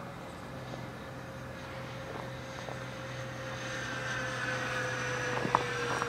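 Freewing AL37 RC model airliner's twin electric ducted fans whining in flight: a steady tone that drifts slightly lower as it grows louder toward the end. A brief sharp click comes near the end.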